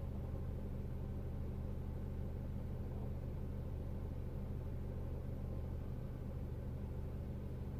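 Peugeot RCZ's 1.6 THP turbocharged four-cylinder petrol engine idling steadily, with an even low hum and no dip in the revs.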